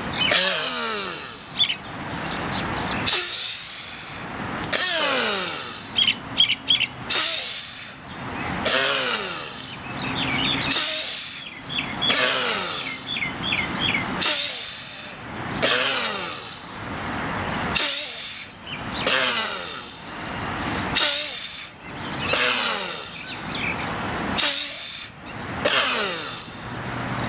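Forceful, rapid breathing through the nose with the mouth held shut: loud rushing inhalations and exhalations, about one stroke a second, kept up without a break. This is kapalabhati (bhastrika-style) yogic breathing.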